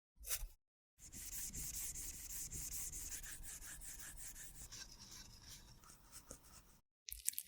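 Rapid rubbing and scraping strokes of a tool working cosmetic product, lasting about six seconds and slowly fading. A few short clicks come near the end.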